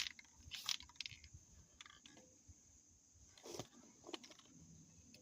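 A few faint, scattered clicks and knocks from objects being handled, the loudest about three and a half seconds in.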